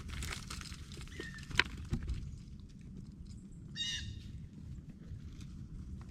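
Blue jay giving one short, harsh call about four seconds in. Before it come a few sharp taps and knocks, the loudest about one and a half seconds in, over a steady low background rumble.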